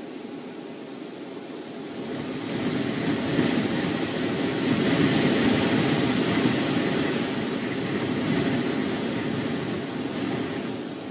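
A gust of wind rushing over an outdoor camera microphone: a noise that swells about two seconds in and eases off near the end.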